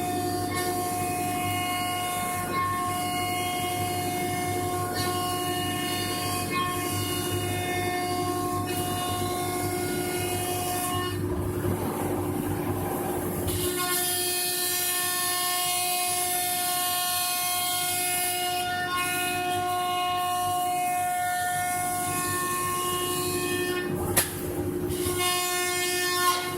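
CNC router milling a wooden door: the spindle and drive motors give a steady whine of several held tones over cutting noise. The tones drop out into a rougher noise for a few seconds near the middle, then resume, and a sharp click comes near the end.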